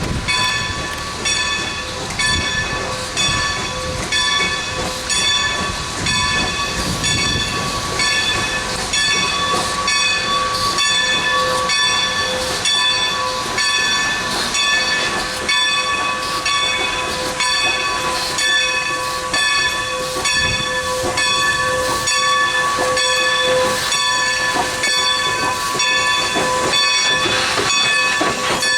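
Steam train with 2-10-0 locomotive #90 running by, giving regular beats about twice a second over a steady hiss, with a steady high ringing tone held throughout.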